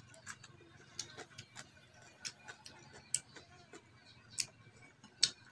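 Eating sounds: irregular sharp clicks and smacks of chewing, about two a second, over a faint steady hum, with the loudest click near the end.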